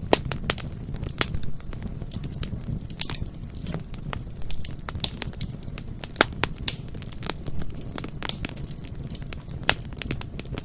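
Bonfire crackling: irregular wood pops and snaps, a few of them louder and sharper, over a steady low noise of the burning fire.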